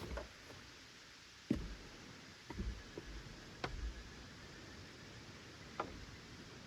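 Scattered, irregular light knocks and taps, about seven over a few seconds, the loudest about one and a half seconds in, over a faint steady background.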